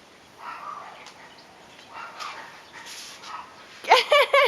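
A dog whining: a few short, wavering high-pitched whimpers near the end, after faint soft sounds.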